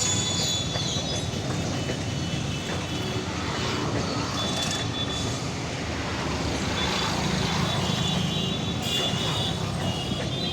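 Steady rumble of a train moving through a station, with a thin high squeal that comes and goes.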